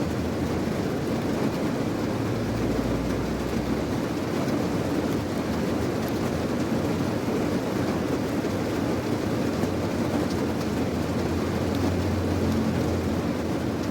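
Recorded steady rain, an even hiss with a low rumble underneath that swells about two to four seconds in. The track cuts off suddenly at the end.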